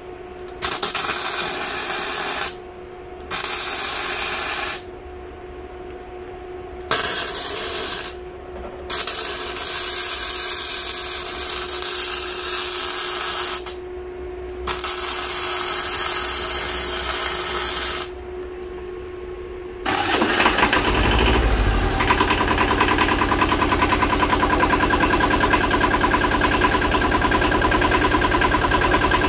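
Mini tractor's engine running under a steady hum, with a hiss that switches on and off several times, while its hydraulics push a log-splitter wedge. About two-thirds of the way through the engine becomes much louder and keeps running hard, as under hydraulic load.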